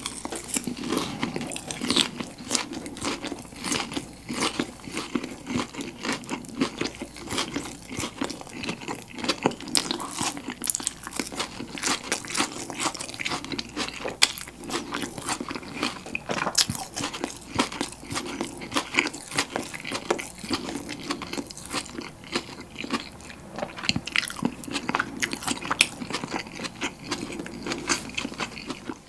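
Close-miked chewing of crispy boneless fried chicken: a dense, irregular crunching and crackling with each bite and chew.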